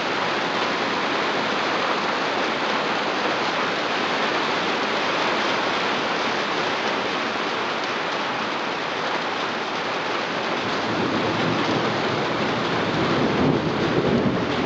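Heavy rain drumming on a tin roof, a steady, loud rush of noise. A deeper, heavier rush builds over the last few seconds.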